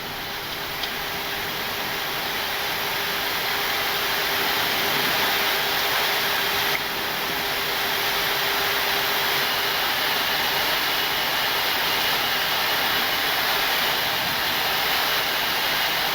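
Steady rushing airflow and engine noise on the flight deck of a Boeing 737-800 in descent. It grows louder over the first few seconds, with a faint steady hum underneath during the first half.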